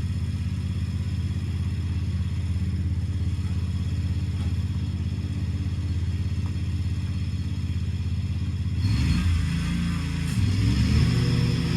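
Gasoline lawnmower engine running steadily with a low droning hum. About nine seconds in it grows louder and its pitch wavers.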